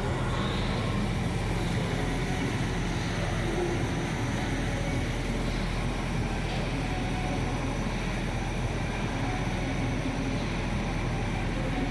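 Idling truck engine, a steady low hum that stays even throughout.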